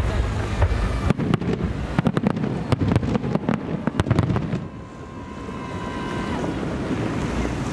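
Fireworks salute shells bursting across the water: a rapid series of bangs and crackles that dies down about four and a half seconds in, over wind rumbling on the microphone. A faint steady tone follows for about a second and a half.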